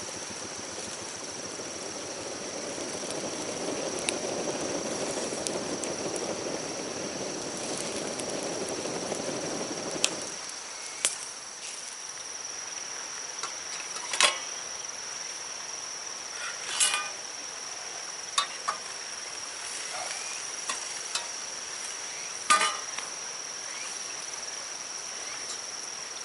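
Insects chirring in one steady high tone throughout. A low rushing noise fills about the first ten seconds and cuts off suddenly, and scattered sharp clicks and knocks follow.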